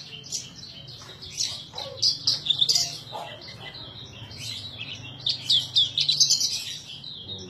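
Branjangan (Horsfield's bush lark) in full song: a fast, varied stream of high chirps and trills, loudest in clusters about two seconds in and again about five to six seconds in.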